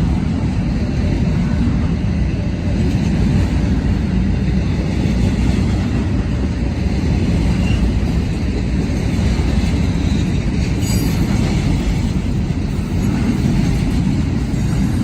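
Freight train cars rolling steadily past on the rails, a continuous low rumble of wheels on track.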